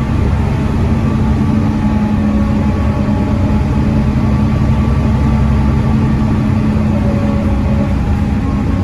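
Volvo B7TL double-decker bus with its 7.3-litre Volvo D7C diesel engine running at a steady pitch, a constant drone with a low rumble beneath it.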